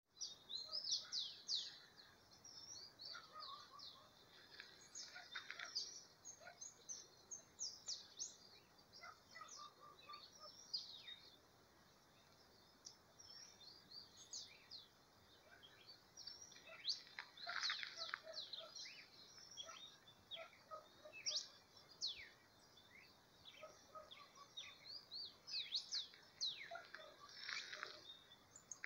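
Several small birds chirping and singing, with many short, quick notes overlapping one another.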